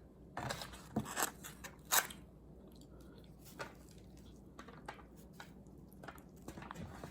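A person chewing and biting food close to the microphone, with a run of crunchy bites in the first two seconds and softer chewing after.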